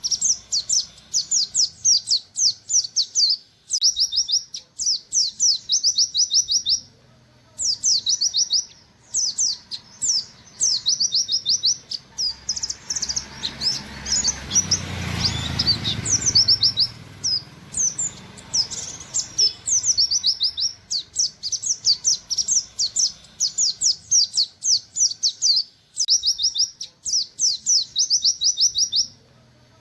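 White-eye (pleci) singing its rapid 'nembak' song: bursts of quick, high, chattering notes, each burst a couple of seconds long with short pauses between. A rushing noise swells and fades about halfway through.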